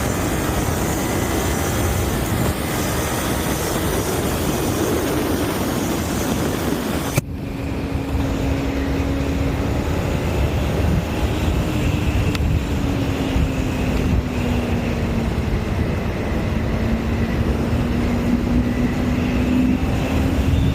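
Motorcycle engine running while riding, with heavy wind rush on the microphone. About seven seconds in, the sound cuts abruptly to a steadier engine drone with less wind, its pitch sinking and rising slowly.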